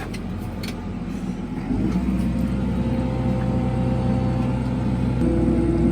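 A vehicle engine running steadily, getting louder about two seconds in.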